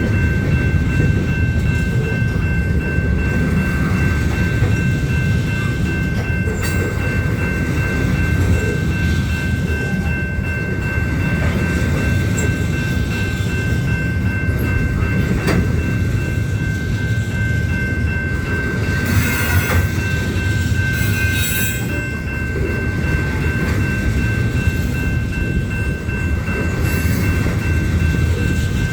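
Union Pacific freight train's cars rolling past in a steady rumble, with a constant high-pitched tone over it and a few short metallic rattles about two-thirds of the way through.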